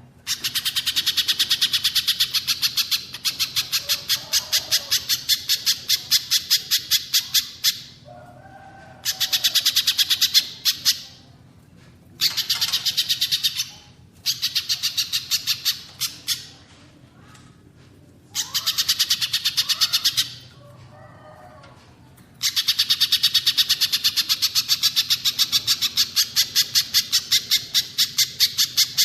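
Recorded bird calls of the pijantung pisang (spiderhunter) and cililin: rapid runs of sharp, repeated high chip notes, each run lasting from one to several seconds with short pauses between, and a few lower warbled notes in the pauses.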